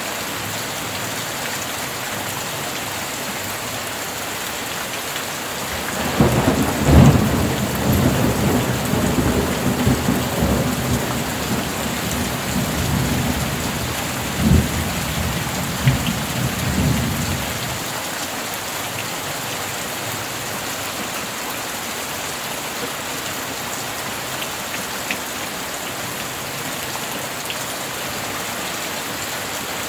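Steady rain falling, with a roll of thunder that breaks about six seconds in. The thunder is loudest right at the start, cracks again twice more, and rumbles away over about twelve seconds.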